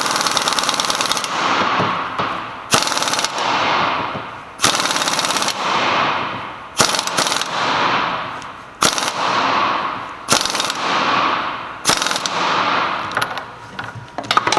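Impact wrench hammering in about seven short bursts with pauses between, tightening the oval lock nut on a Salisbury differential's pinion yoke. Each burst crushes the pinion crush collar a little further to take up the pinion bearing end play.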